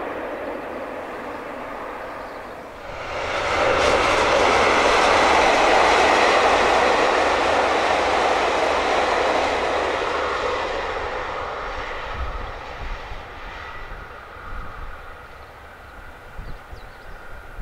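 A JR Hokkaido diesel limited express railcar passes close by about three seconds in, a rising rush of wheel and engine noise, then fades steadily as the train runs away down the line.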